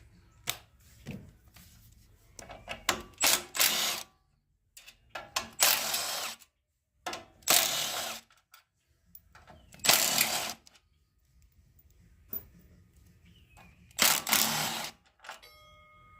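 Socket ratchet working out the 12 mm side-cover bolts on a Honda GX200 engine. There are several short runs of quick ratcheting, each under a second, with scattered clicks and tool knocks between them.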